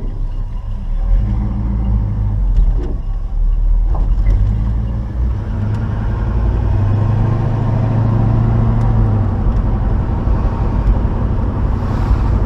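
Chevy 350 small-block V8 in a 1972 Nova running as the car sets off on a drive, heard from inside the cabin; the engine note builds up through the middle and eases off again.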